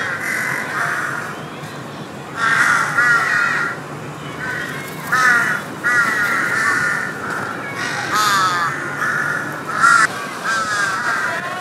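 Birds calling over and over in several bursts of quick, sweeping calls, with a steady low hum beneath.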